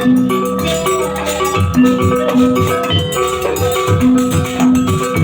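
Instrumental percussion music of the Banyuwangi barong accompaniment: short repeating ringing metal notes over steady drum strokes, with no singing.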